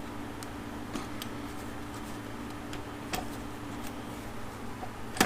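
Light ticks of small metal parts and hand tools being handled during motorcycle starter reassembly, over a steady low hum, ending in one sharp, loud click as a part seats.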